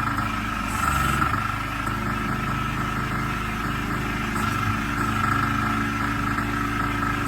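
Diesel engine of a clay interlocking brick-making machine running steadily, with a steady high whine over the engine note and a brief heavier surge about a second in.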